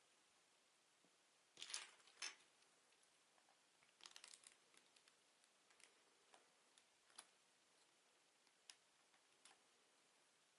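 Plastic Lego bricks being handled and clicked, with light sharp clicks and rattles: two louder clacks near the start, a quick cluster of small clicks a little later, then single soft clicks spaced about a second apart.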